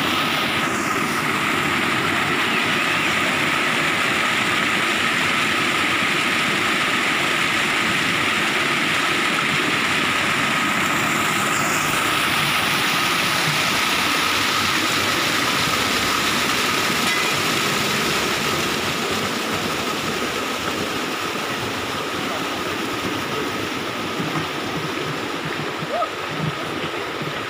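Water rushing steadily, with a thin steady tone above the rush; it eases slightly about two-thirds of the way through.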